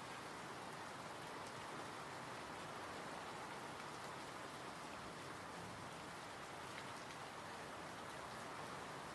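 Steady, even rain falling, with faint scattered drop ticks.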